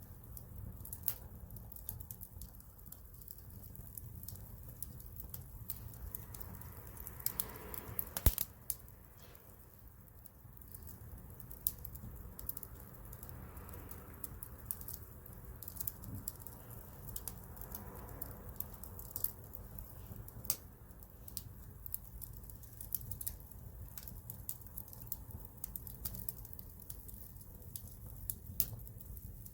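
Wood campfire crackling: irregular sharp pops and snaps over a steady low rumble, the loudest pop about eight seconds in, with a few soft swells of hiss.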